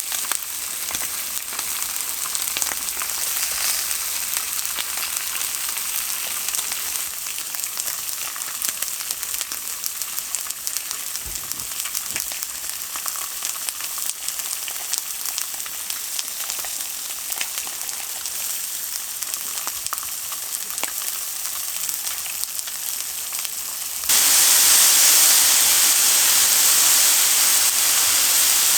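Food sizzling and crackling in a hot pan, a steady hiss full of small pops. Near the end it suddenly gets louder.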